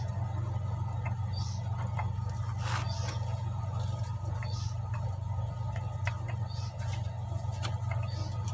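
A steady low hum, with faint scattered clicks and soft rustles.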